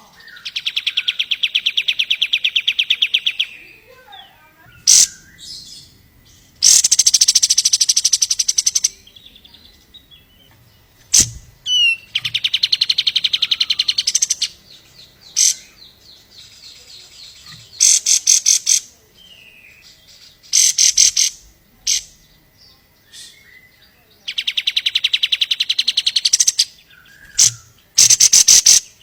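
Kapas tembak songbird singing: a string of fast, rattling trills, each lasting two to three seconds, broken up by short sharp chirps.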